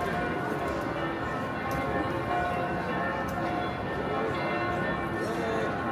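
Church bells ringing, several pitches sounding and overlapping, over the steady hubbub of a busy street.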